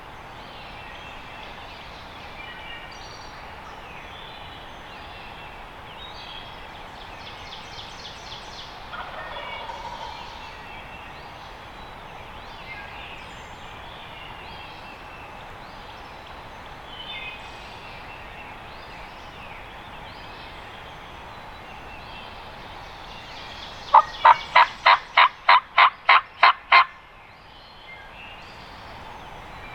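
Turkey yelping: a loud run of about ten sharp, evenly spaced yelps, three-quarters of the way through. Faint bird chirps sound over a quiet woodland background.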